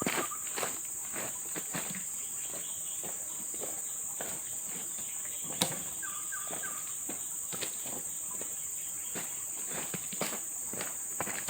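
Steady high-pitched chorus of forest insects, with irregular light knocks and footstep-like taps close by, the sharpest one about halfway through. A short run of chirping calls comes twice, near the start and about six seconds in.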